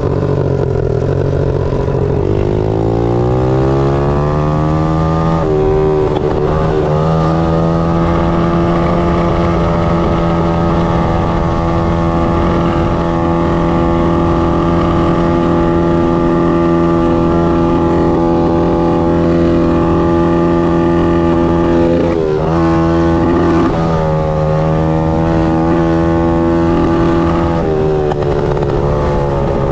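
Pit bike engine ridden at full throttle. The revs climb through the gears over the first several seconds, then hold steady at high revs for a long stretch, with a brief drop and recovery about two-thirds of the way in and another drop near the end.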